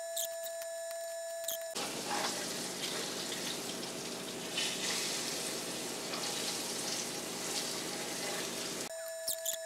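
Breaded panfish pieces frying in oil in a cast-iron skillet: light crackling pops over a faint steady hum at first, then from about two seconds in a fuller, steady sizzling hiss that lasts until near the end.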